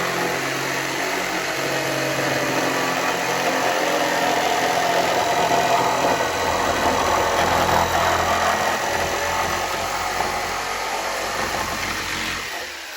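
A small handheld power saw cutting through a wooden board, running steadily under load, then winding down and stopping near the end.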